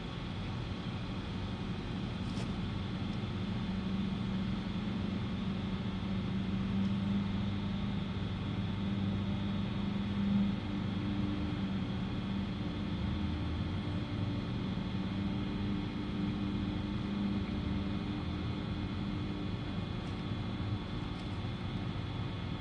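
Steady mechanical hum of a running motor or engine, its pitch shifting slightly partway through.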